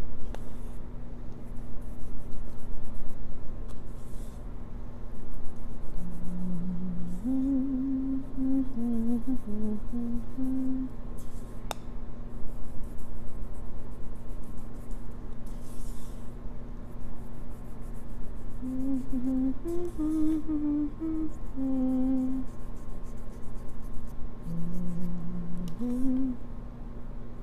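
A person humming a slow, wandering tune in three short phrases, over the steady scratchy swish of brush strokes on a stage backdrop and a constant low electrical hum.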